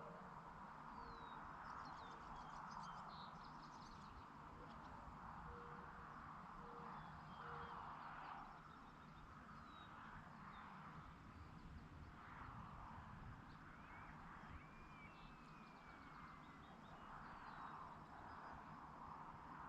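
Faint outdoor evening ambience with birds chirping and calling, some notes gliding in pitch, over a steady low hiss. In the first half a bird gives a run of short, low, hoot-like notes.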